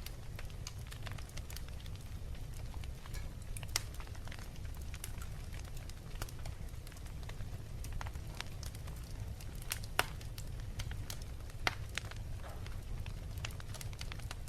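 Wood fire crackling, with scattered sharp pops over a steady low rumble; the loudest pops come about four, ten and twelve seconds in.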